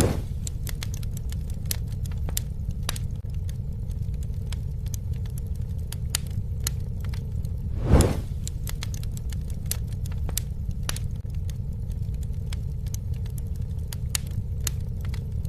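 Campfire burning: a steady low roar with frequent sharp crackles and pops, and one brief swelling whoosh about halfway through.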